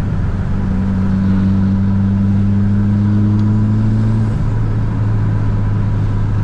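Tuned 400 hp Mitsubishi Lancer Evolution VIII's turbocharged four-cylinder engine running under way with a steady drone. A higher tone rises slowly and drops away about four seconds in.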